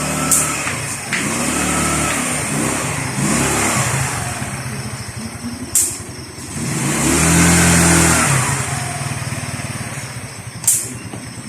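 Rusi 125cc scooter's single-cylinder engine revving up and dropping back several times, loudest about seven to eight seconds in, with three sharp clicks along the way.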